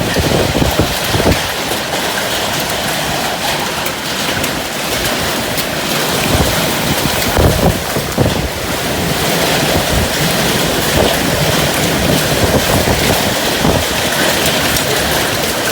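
Steady rain with gusting wind; the wind buffets the microphone in uneven low rumbles.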